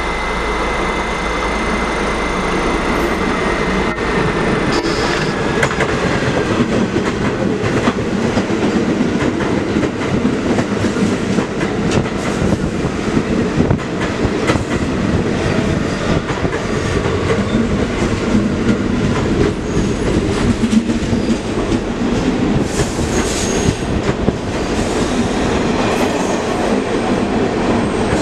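A train passing close by: a steady rumble of cars rolling on the track, with irregular wheel clicks over rail joints throughout. A faint high whine is present in the first couple of seconds and fades.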